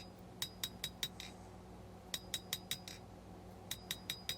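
Blacksmith's hammer striking steel on the anvil in three quick runs of four or five light, ringing blows, about five a second, with short pauses between runs. A steady low hum runs underneath.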